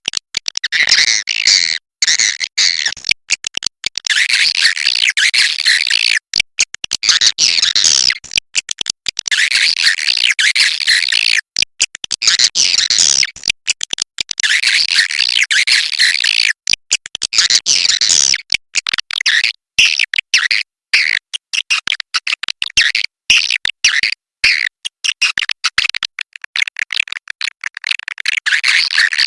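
Swiftlet calls: a dense, high chattering twitter of many birds, broken by many short, sudden gaps.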